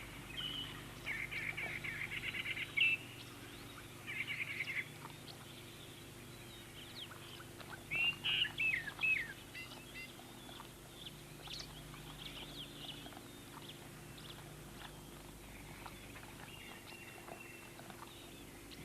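Natural wildlife ambience of chirping calls. A rapid chirping trill runs for about two seconds near the start, a shorter trill comes around four seconds in, and a quick run of chirps follows around eight to nine seconds. After that come scattered soft clicks over a faint steady hum.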